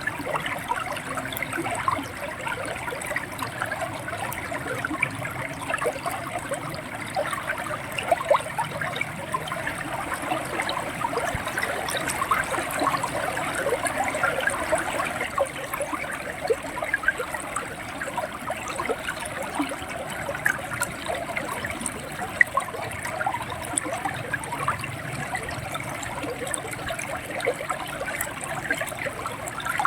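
A shallow river running and gurgling over stones, a steady rush with many small splashes.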